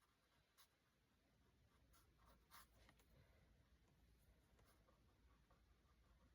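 Near silence, with a few faint scratchy strokes of a paintbrush on canvas.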